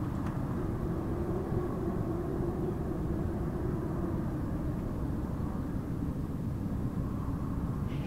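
Wind howling: a steady low rush with one held howling tone over it.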